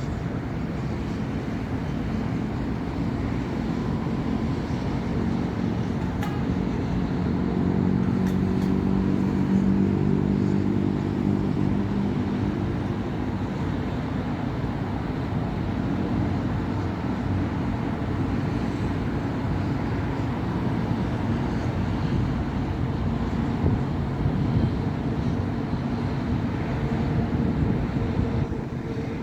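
Steady city road traffic: cars passing on a busy avenue, with the low drone of a heavier engine swelling and fading as it goes by about a third of the way in.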